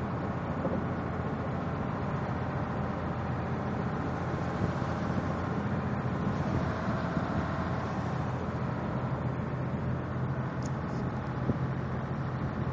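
A running engine's steady low drone under a constant rushing noise.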